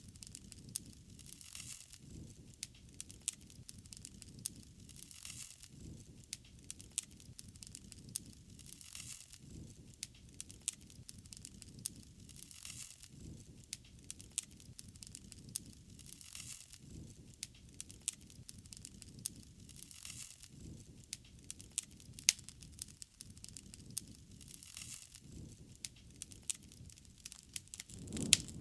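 Wood fire crackling: frequent sharp snaps and pops over a soft, steady low rush of the flames.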